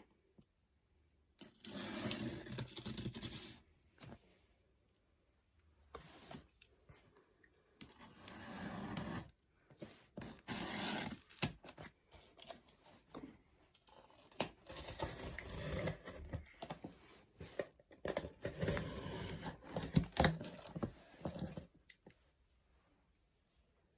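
Parcel packaging being handled, torn and scraped, in several separate bursts of one to three seconds with quiet pauses between them.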